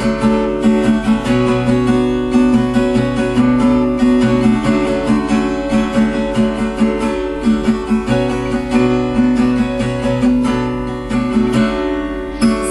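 Acoustic guitar strummed in a steady, quick rhythm: an instrumental passage of a song with no singing.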